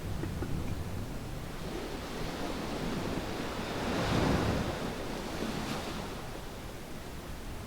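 Ocean waves washing onto a sandy beach. One wave swells to its loudest about four seconds in, then the wash falls back.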